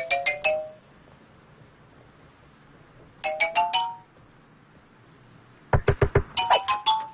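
Cartoon doorbell ringing a quick four-note chime, three times a few seconds apart. A few sharp knocks on a door come just before the third chime.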